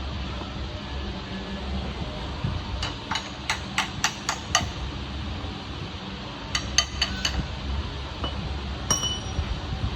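Metal being struck: a quick run of about seven sharp hammer-like taps, then four more a couple of seconds later, and near the end one clink that rings briefly. A steady low hum runs underneath.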